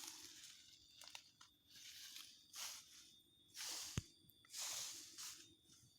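Faint, irregular crunching and rustling in dry bamboo leaf litter, a burst about every second, with one sharp click about four seconds in.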